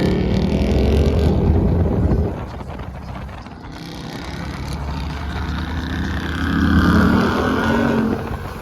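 Car engine and road noise while driving: a steady low rumble that drops off about two seconds in, then the engine note climbs and swells again toward a peak near the end.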